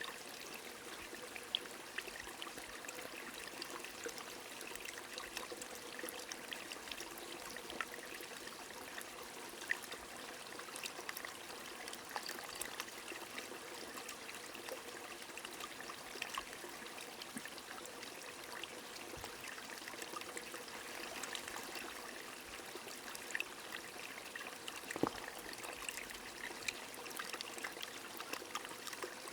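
A small stream trickling steadily, with scattered ticks of raindrops on top.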